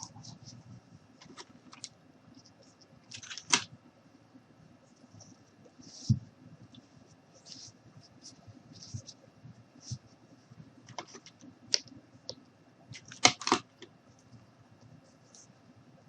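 Rope rustling and scraping as it is wound around a wine glass, with scattered light clicks and taps from the glass being handled. The loudest scratches come about three and a half seconds in and again near thirteen seconds, with a dull knock about six seconds in.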